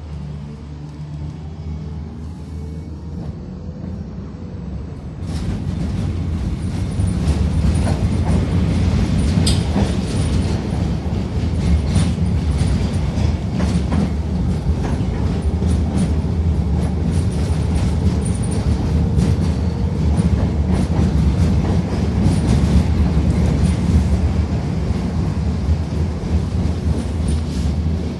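Tatra T6B5 tram pulling away: a motor whine rises in pitch over the first few seconds. From about five seconds in it runs on louder, with a steady rumble and wheels clicking over rail joints.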